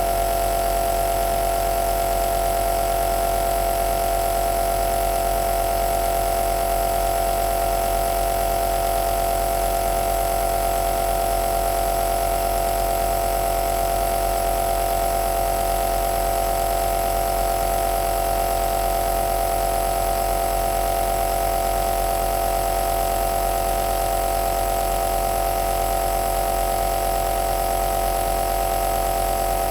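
Compressor nebulizer (aerosol machine) running steadily: an even motor hum with a constant mid-pitched tone and a low drone beneath it.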